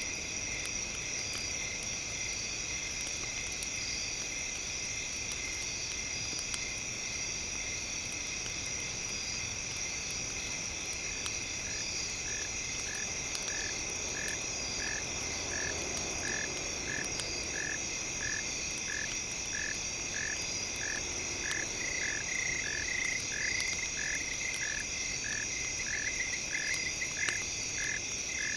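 Night nature ambience: a steady chirring of insects. From about eleven seconds in, a frog-like call joins, pulsing about one and a half times a second, with faint crackling ticks from a campfire.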